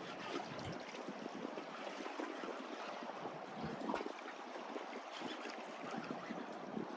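Small waves lapping and trickling among the rocks of a jetty, a steady wash of water with many small splashes and drips.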